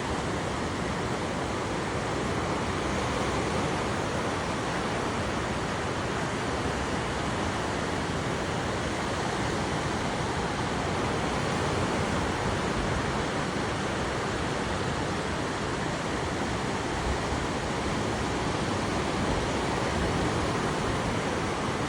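Sea waves breaking and washing on a beach: a steady surf noise that swells gently in level every several seconds.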